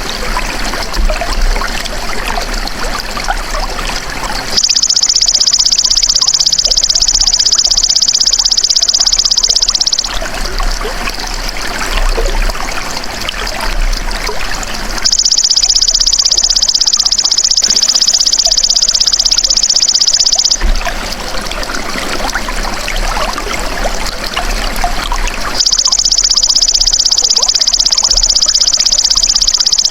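Belalang emas (golden grasshopper) insect singing a high, rapidly pulsing trill in three bouts of about five seconds each, starting and stopping abruptly. Between the bouts, water trickles and splashes.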